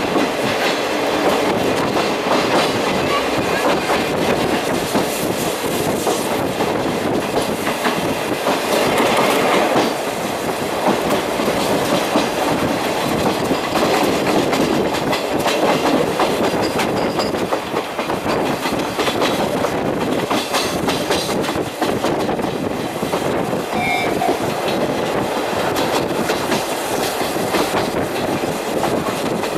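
Old-type passenger coach rolling along jointed rail, heard through an open window: a steady running rumble with the clickety-clack of the wheels over the rail joints.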